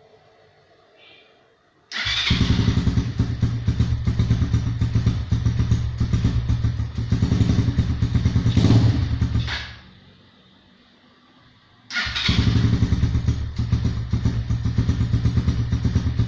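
DTM 150 motorcycle engine started on a morning start, idling with a steady beat and blipped once before it is switched off. About two seconds later it is started again and settles back into an idle.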